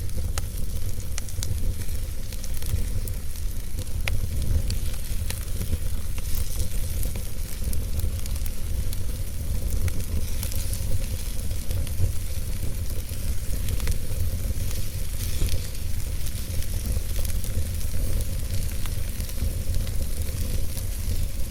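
Wood logs burning in a fireplace, crackling with scattered sharp pops and snaps over a steady low rumble and hiss of the fire.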